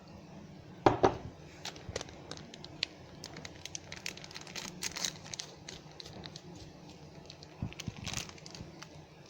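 Crinkly material such as plastic or paper being handled: irregular rustling and crackling with scattered sharp clicks, and a louder knock about a second in.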